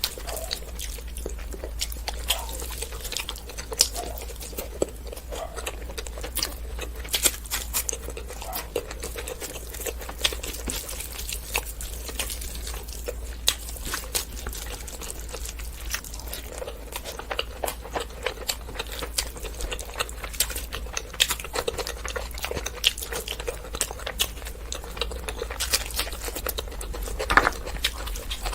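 Close-miked eating sounds: wet chewing and lip-smacking of rice and mutton curry, a dense, irregular run of small clicks and smacks, over a steady low hum.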